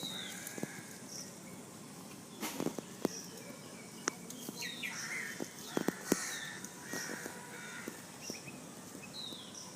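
Birds chirping in the background, short scattered calls, with a few sharp clicks about a third of the way in and again past the middle.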